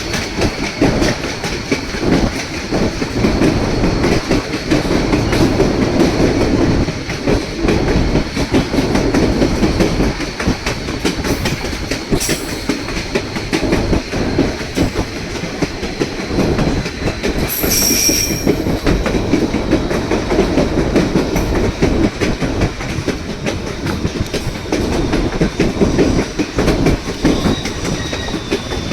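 A train of the White Pass & Yukon Route narrow-gauge railway running along the track, with steady rolling noise and wheel clatter. About two-thirds of the way through comes a brief, high-pitched squeal.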